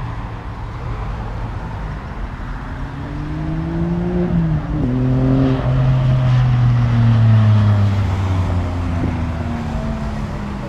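A car's engine revving up as it accelerates, dropping in pitch with a gear shift about halfway through, then pulling past, loudest shortly after the shift and easing off near the end.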